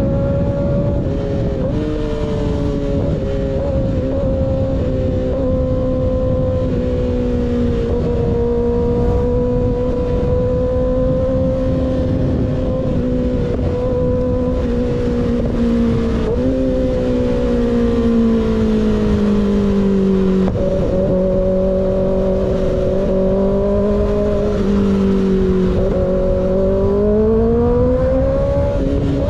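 Sport motorcycle with an unbaffled M4 GP19 slip-on exhaust cruising at steady revs. The revs ease down past the middle, hold lower for several seconds, then rise again near the end, with wind rumble on the microphone.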